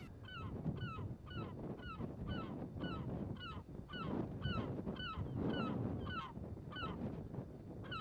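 A bird that is not an emperor goose calls repeatedly, about twice a second. Each short, goose-like call bends in pitch, over a steady low rumble.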